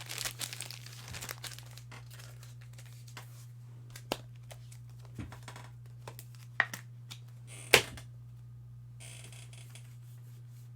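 Crinkling and tearing of a foil trading-card pack wrapper, then scattered light clicks and taps of cards being handled, with one sharper snap a little under eight seconds in. A steady low electrical hum lies under it.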